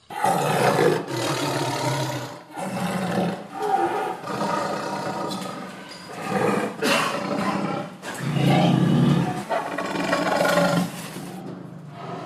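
Male lion roaring repeatedly, a run of about five long calls with short breaks between them.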